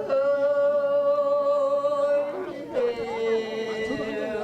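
Korean folk farming song (deulsori) sung solo: a singer holds one long, steady note for about two seconds, then after a short break holds a second, slightly lower note that sags a little at its end.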